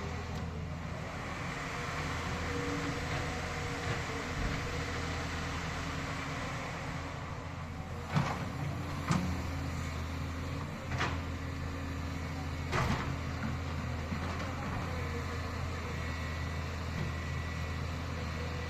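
Steady low engine-like hum over a noisy background, with four sharp knocks in the middle stretch.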